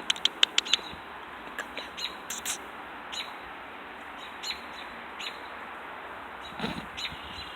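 A small songbird chirping: a quick run of about six sharp chirps at the start, then single chirps every second or so.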